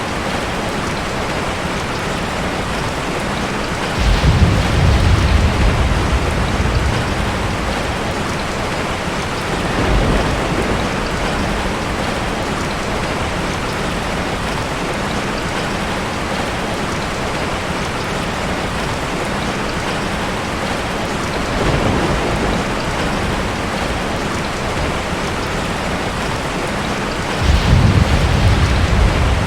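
Steady rain falling, with rolls of thunder: a strong low rumble about four seconds in lasting a few seconds, weaker ones around ten and twenty-two seconds, and another strong roll near the end.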